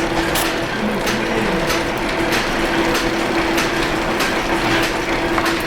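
An old machine running with a steady hum and sharp mechanical clacks that repeat at uneven intervals of roughly half a second to a second.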